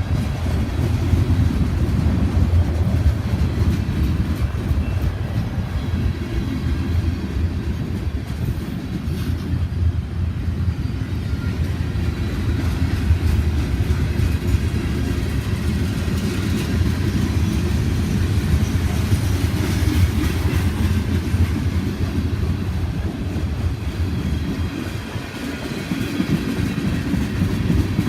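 Freight train rolling by: a steady low rumble of wheels on rail, dipping briefly near the end.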